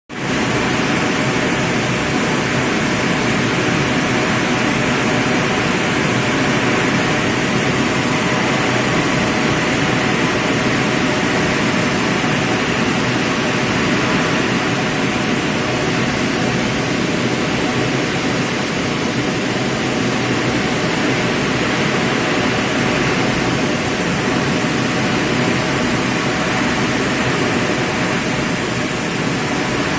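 Heavy rain pouring down in a steady, loud, even hiss, driven by strong wind.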